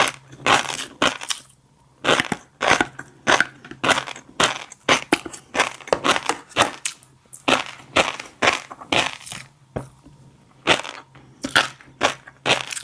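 Close-miked chewing of fish roe: the small eggs crunch and pop between the teeth in quick irregular bursts, a few a second, with short pauses between mouthfuls.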